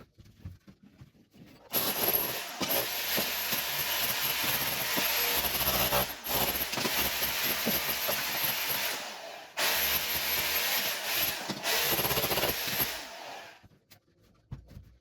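Electric demolition hammer chiselling old ceramic tiles off a wall, running with a rapid hammering and a high motor whine. It starts about two seconds in, stops briefly twice, and cuts out near the end.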